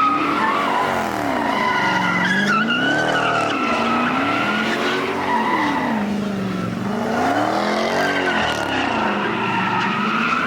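A car's engine revving hard and dropping back over and over, about every two seconds, while its tyres squeal without a break as it spins them at a car meet.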